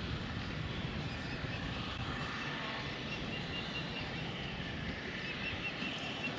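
Steady wind noise on the microphone over open water, with a faint run of short high chirps starting a couple of seconds in.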